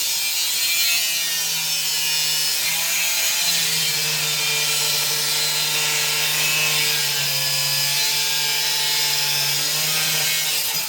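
Angle grinder cutting through steel: the motor runs steadily under load with the hiss of the disc biting into the metal.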